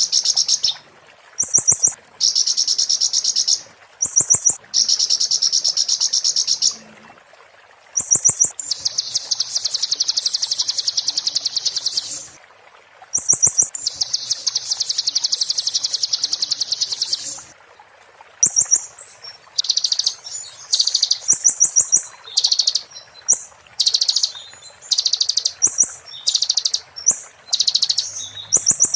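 Konin songbird singing its 'muntah beling' song: long, very fast, high-pitched trills lasting a second or more each, broken by short higher notes. In the last third the phrases turn shorter and choppier.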